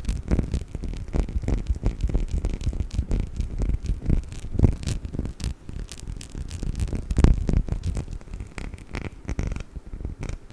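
Perfume bottle handled as an ASMR trigger: a fast, irregular run of taps and scratches, with two heavier knocks about halfway through and again about two-thirds of the way in.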